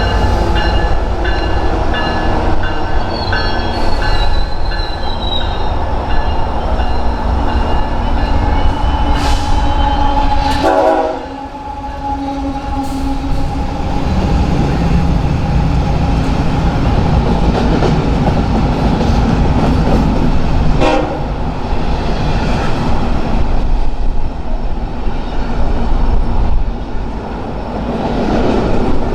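A train passing with a loud, continuous rumble. A horn chord sounds during the first few seconds.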